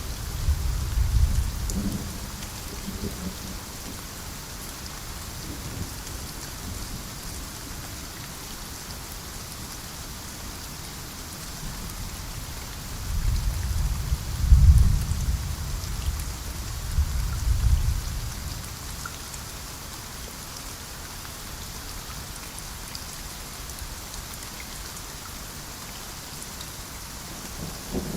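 Steady rain falling, with rolls of thunder rumbling under it: a short one at the start, a longer, louder one about halfway through, and another building at the very end.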